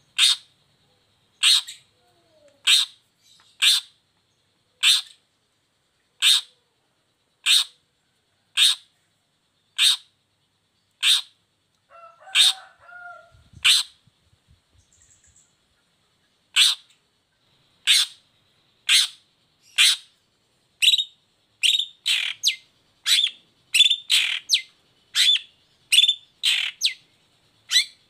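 Long-tailed shrike (cendet) calling: a series of short, sharp calls about a second apart, pausing for a couple of seconds about halfway through, then coming faster and more varied near the end.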